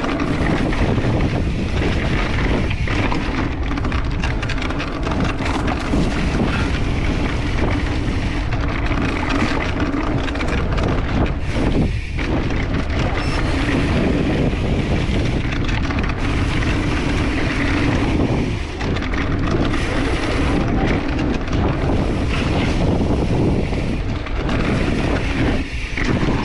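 Mountain bike riding on a dirt trail, with wind buffeting the camera microphone over the tyre and trail noise in a steady, dense rush.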